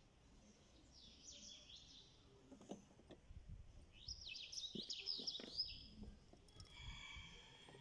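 Faint small birds chirping in quick trilling bursts, about a second in and again from about four seconds in, with a held call near the end. A few faint clicks come from the plastic air flow meter sensor being fitted into its rubber intake duct.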